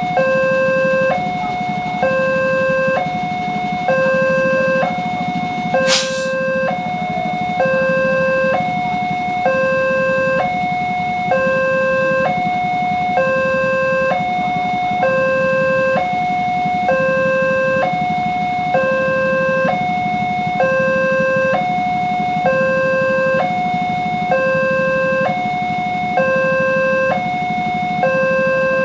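Railway level-crossing warning alarm sounding continuously, alternating between two tones about once a second, the signal that a train is approaching and the barriers are down. A single sharp knock about six seconds in, over a low steady rumble.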